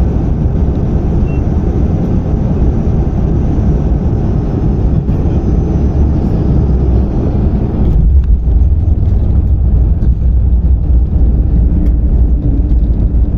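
Loud, steady low rumble inside the cabin of an Airbus A220-300 jet airliner rolling on the ground after landing. About eight seconds in, the higher part of the noise falls away and the deep rumble goes on.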